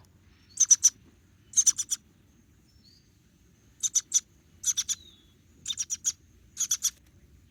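Baby bird chirping in quick, very high-pitched bursts of about three chirps each, six bursts in all: the begging calls of a hungry nestling being hand-fed.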